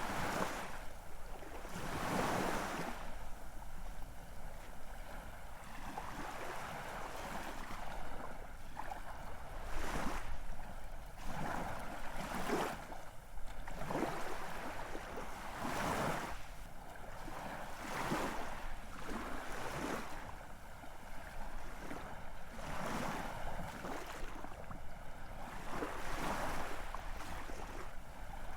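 Ocean waves breaking and washing, one surge after another every couple of seconds over a steady rush of surf.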